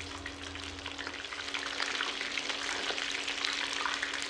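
Batter-coated chicken pieces deep-frying in hot oil over medium heat: a steady, dense sizzle full of small crackles and pops.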